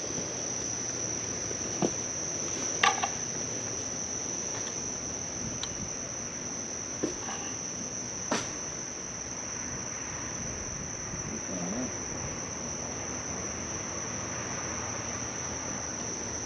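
Steady, unbroken high-pitched chorus of night insects such as crickets, with a few faint clicks or knocks scattered through it.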